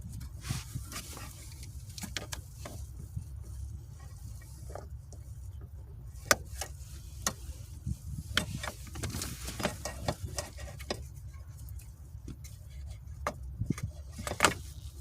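Scattered clicks, taps and rattles of a manual transmission shifter's plastic and metal parts being handled and unclipped, with two sharper clicks about six seconds in and near the end, over a steady low rumble.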